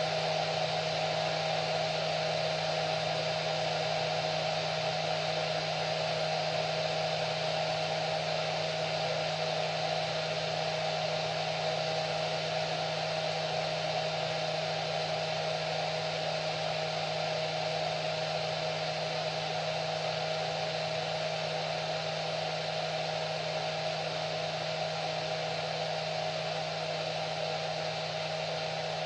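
Electric hair dryer running steadily: an even airflow rush with a constant motor hum and a steady whine.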